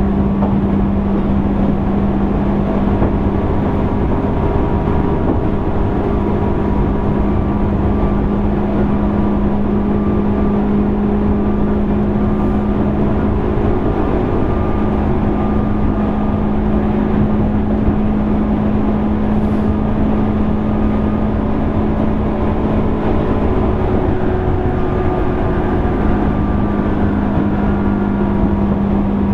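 Interior running sound of a JR East 205 series 600 subseries electric train's motor car, travelling at a steady speed. A constant hum holds one pitch throughout over a loud, steady rumble of wheels on track.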